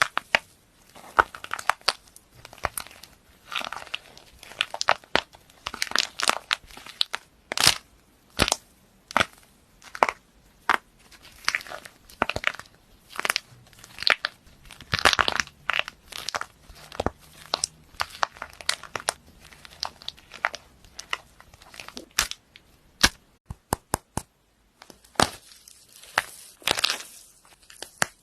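Crisp crackling and crunching of something brittle being squeezed and crushed, in irregular clusters of sharp crackles with short pauses between them and one longer pause near the end.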